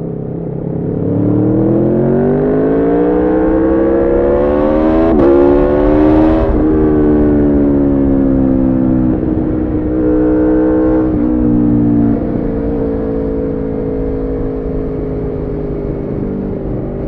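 Aprilia Tuono V4's V4 engine through a decatted Arrow slip-on exhaust, heard from the rider's position. The revs climb under hard acceleration, with a quick upshift about five seconds in and another climb after it. The note then falls off in several steps and settles to a steady cruise.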